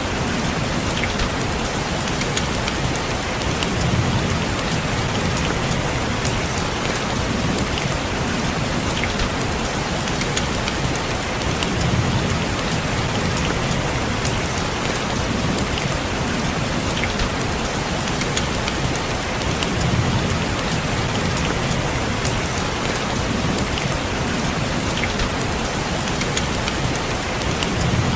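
Steady rain falling, with scattered drops ticking on a surface and a low swell recurring about every eight seconds.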